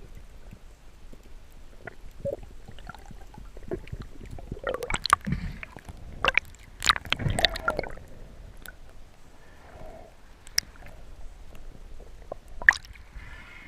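Water sloshing and gurgling, busiest from about four and a half to eight seconds in, with scattered sharp clicks, the clearest two near the end.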